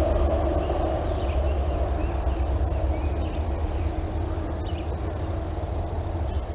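Norfolk Southern freight train rolling past, a steady low rumble of wheels on rail that slowly fades. A few faint bird chirps sound over it.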